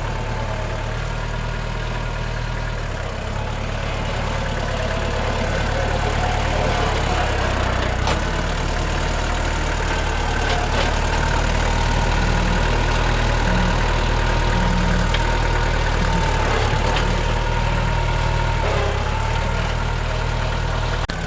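NorTrac 35XT compact tractor's diesel engine running steadily while it works, with a few sharp clicks and knocks.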